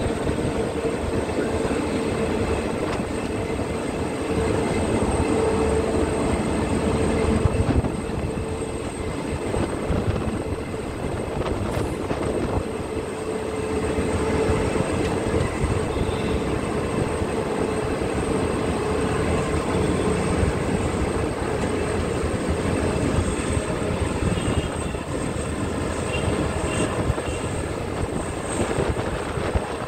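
Indian Railways passenger train running at speed, heard from aboard a coach: a steady rumble and rush of wheels on the rails, with a faint steady whine running through it.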